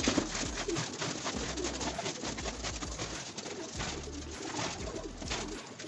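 Racing pigeons cooing repeatedly inside their loft, with irregular clicks and scrapes alongside.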